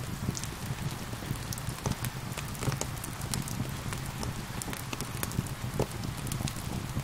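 Wood fire crackling, with frequent short sharp pops and snaps, over the steady hiss of gentle rain.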